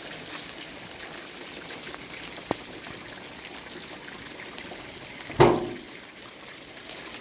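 Steady trickling, running water. There is a sharp click about two and a half seconds in, and a louder sudden thud about five seconds in that dies away quickly.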